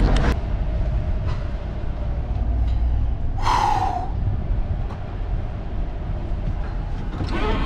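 Vehicle engine running with a steady low rumble, and a short hissing squeal that falls in pitch about three and a half seconds in.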